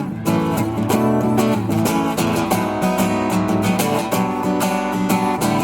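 Acoustic guitar strummed in a steady rhythm, an instrumental passage between sung verses of a song.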